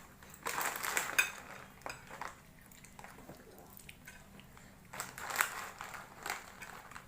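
Eating instant ramen noodles, with utensils clinking against the bowl, in two spells: about half a second in and about five seconds in.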